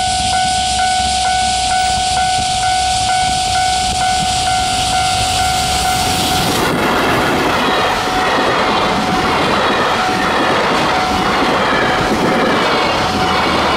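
Level crossing alarm ringing steadily, about two beats a second. About seven seconds in, a JR Freight EF210 electric locomotive passes close by, followed by container wagons rolling past with a clatter of wheels, the alarm still sounding underneath.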